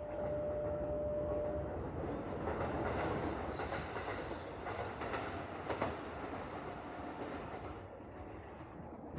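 Keikyu electric train moving through the station, wheels clacking over the rails with a steady running rumble. A single steady whine stops about two seconds in.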